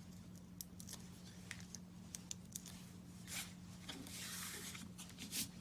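Small ticks, taps and rustles of paper craft handling, with a longer rustle about four seconds in, as backing paper is peeled off foam adhesive dimensionals and card pieces are handled. A steady low electrical hum runs underneath.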